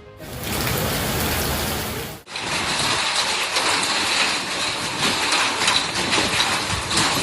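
Rain falling steadily. About two seconds in, the sound cuts briefly and goes straight on in a slightly different take, with many small drop ticks.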